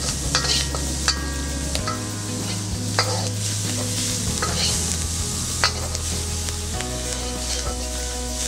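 A metal spatula scraping and tapping against a steel wok as fire ants and their eggs are stir-fried, over a steady sizzle from the hot pan. The sharp strokes come every second or two.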